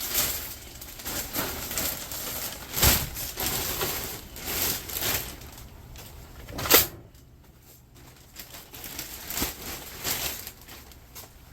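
Sheet-metal cabinet of a clothes dryer being bashed and wrenched apart for scrap: a run of clanging knocks and rattling metal, with two hard blows standing out, about three and seven seconds in.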